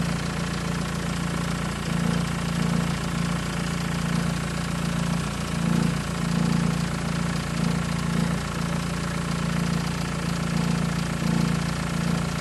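Engine idling steadily with a fast rattle, which the owner asks may be timing chain rattle.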